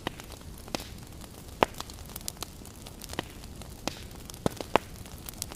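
Wood fire crackling in a fireplace: irregular sharp pops and snaps, a few louder ones about a second and a half in and near the end, over a steady low rumble.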